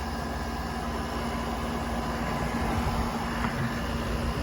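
Quasar Cool Look 5000 BTU window air conditioner (a rebadged Panasonic) running on low cool: a steady compressor hum under the even rush of the fan blowing air.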